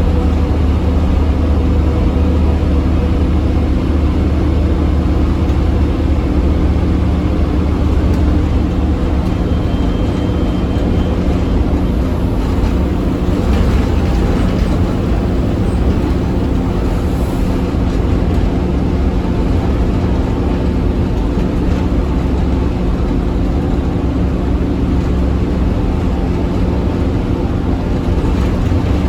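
Scania OmniCity bus engine running under load at fairly steady revs, a continuous low drone with road and body noise around it.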